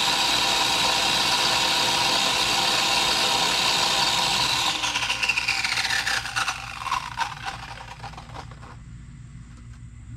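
Small chainsaw running at full speed, then let off a little under halfway through: its whine winds down in pitch over about three seconds with rattling from the chain, leaving a low hum.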